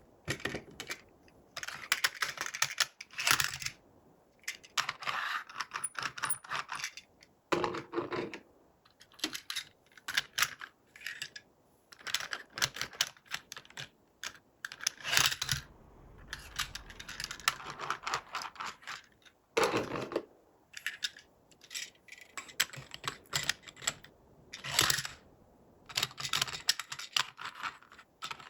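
Hands handling toys and their packaging: irregular bursts of small clicks, taps and crinkling, with short pauses between handlings.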